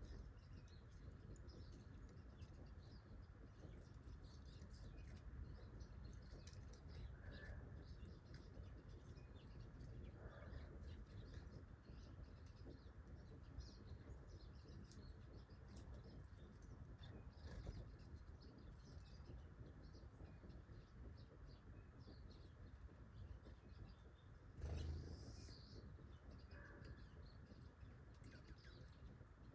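Faint scattered chirps and calls of small wild birds over a low steady rumble, with one brief louder rustling thump about 25 seconds in.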